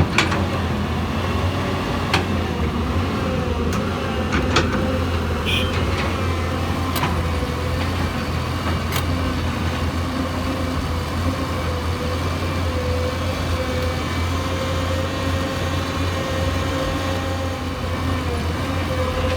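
Hyundai Robex 220-9SH excavator's diesel engine running steadily, with a few sharp metal clanks in the first nine seconds.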